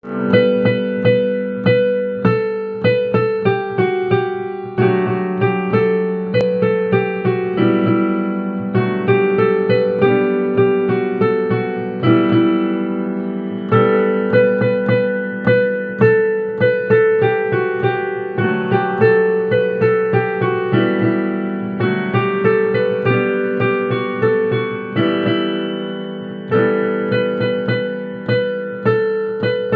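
Piano being played: a continuous stream of struck melody notes over steadily repeated low bass notes.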